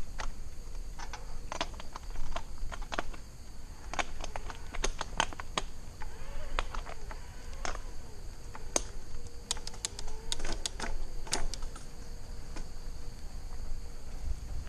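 Scattered sharp clicks and taps, irregular and the loudest thing heard, over a steady high-pitched chorus of insects.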